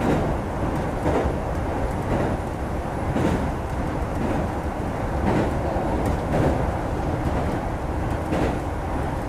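Kintetsu 2430 series electric train running, heard from inside the passenger car, with a steady rumble and the wheels knocking over rail joints every second or two.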